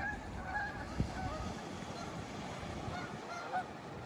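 Geese honking, a string of short calls. A single thump about a second in.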